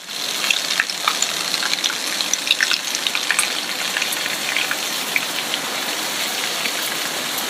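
Heavy rain falling: a steady hiss with many small, sharp ticks of drops striking surfaces.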